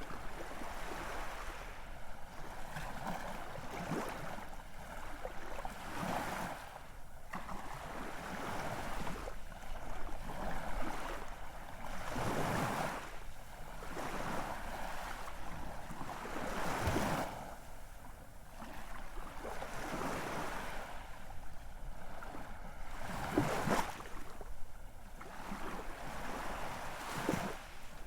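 Ocean waves washing ashore, a continuous rush of surf with louder surges every four to five seconds as waves break.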